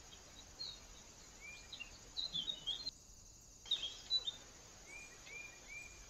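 Wild birds chirping over a steady background hiss: clusters of short, high chirps, then three short curved notes near the end. A brief break of near silence about three seconds in, where two recordings are joined.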